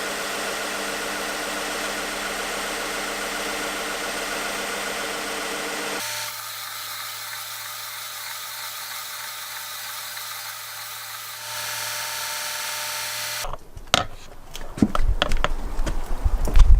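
Electric power tool running at a steady speed, with a sudden change in its tone about six seconds in and again about eleven seconds in. About thirteen seconds in it gives way to a run of sharp knocks and clatter.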